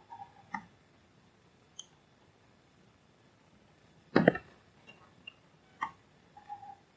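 A few sharp clicks and taps from small tools and parts being handled at an electronics workbench, with one louder knock and clatter about four seconds in.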